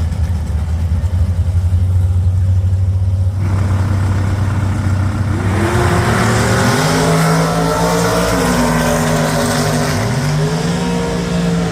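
Drag-racing car engine rumbling at idle, then revving hard from about five and a half seconds in. The pitch climbs, dips twice and climbs again before the sound cuts off.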